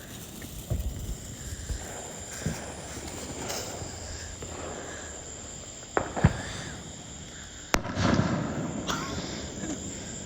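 Scattered sharp pops of spent firecrackers going off late on the ground, a few small ones early on and louder cracks about six seconds in and near eight seconds, over a steady high chirring of crickets.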